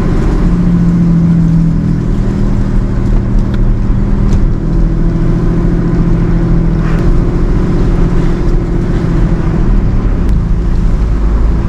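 Tow truck engine running steadily while driving, with a constant low drone and road rumble.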